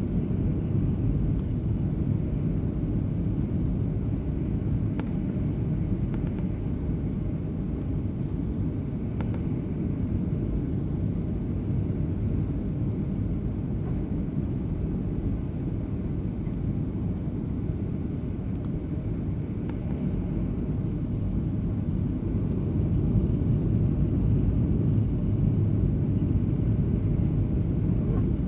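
Steady cabin noise of a jet airliner in flight: a deep, even rumble of engines and airflow, getting a little louder about 23 seconds in.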